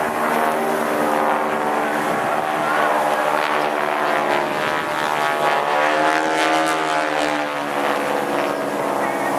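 Propeller engine of a Boeing Stearman biplane running in flight, a steady droning note whose pitch bends midway as the aircraft passes, over wind noise.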